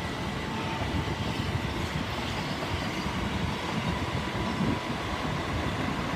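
Class 377 Electrostar electric multiple unit pulling out of the platform, its carriages rolling past with a steady rumble and a faint whine.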